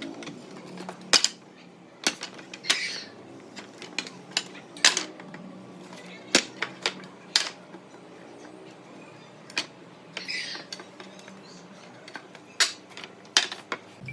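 Irregular sharp clicks and knocks, as of pieces of wood being handled and set down, with a brief scraping sound twice.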